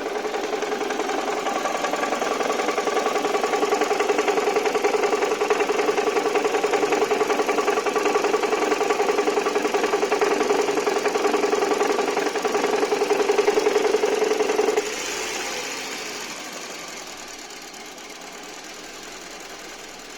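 Toyota 1AZ-FSE four-cylinder petrol engine running with a loud, rapid knock that seems to come from the first cylinder but is caused by a cracked flywheel. About fifteen seconds in, the knock cuts out suddenly and the engine runs on more quietly.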